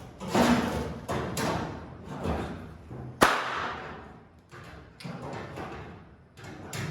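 Packaging and a new sheet-metal hood being handled during unpacking: a run of rustling, scraping swishes and thumps, with one sharp knock about three seconds in.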